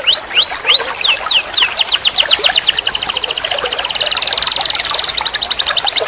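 Domestic canary singing in tours: rapid trills of repeated down-sweeping notes, broken near the start by three rising whistled notes, then a faster rolling trill around the middle.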